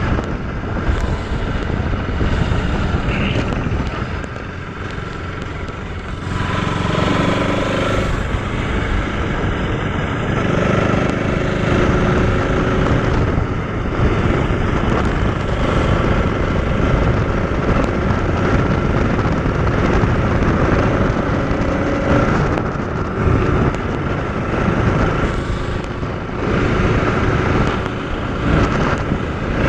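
Motorcycle running steadily while being ridden, its engine note holding at a fairly constant pitch under a dense rush of noise.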